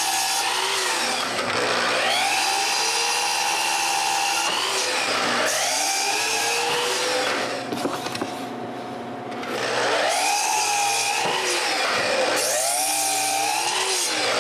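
Power saw crosscutting old 2x4s. Its motor pitch sags each time the blade is loaded in the wood and climbs back between cuts, several cuts in a row, with a quieter spell about halfway through.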